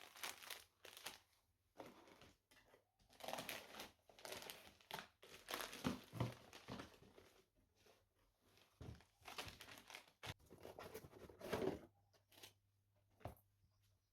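Packaging crinkling and rustling in irregular bursts of handling, with short quiet gaps between.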